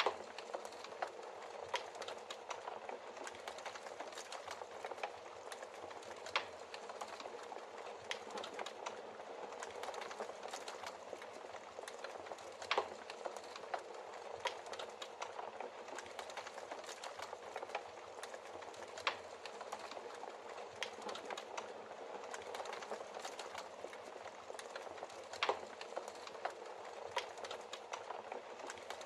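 Wood logs burning in a fireplace: a steady rushing hiss of the flames with frequent irregular crackles and sharper pops, a few louder snaps scattered through.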